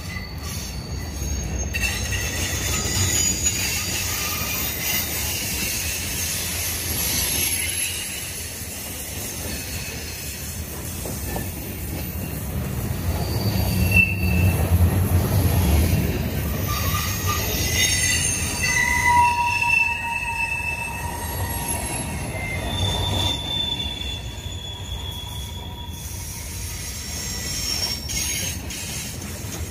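Cars of a manifest freight train rolling past on a curve, their wheels squealing against the rail in short high-pitched tones that come and go, over a steady low rumble of wheels on track.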